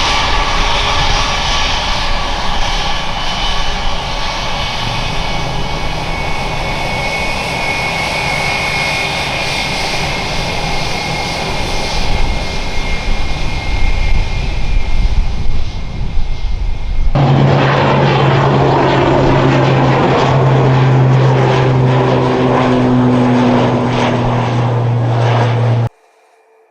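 Airliner engines running loud with a high whine. About two-thirds of the way in, a hard cut switches to a different aircraft engine sound with a strong, steady low hum. This stops abruptly near the end.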